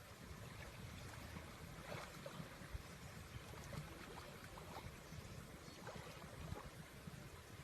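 Faint moving water in a natural pool, with scattered small splashes and trickles over a low rumble.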